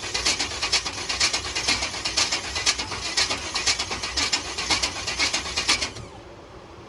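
Chevy C10 race truck engine running through open headers, a loud, uneven crackling exhaust. It cuts off abruptly about six seconds in, leaving a quieter steady hiss.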